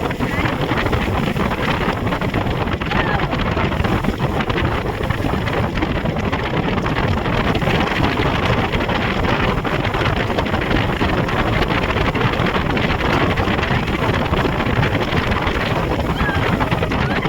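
Speedboat running steadily under power, its engine and rushing water mixed with heavy wind buffeting the microphone.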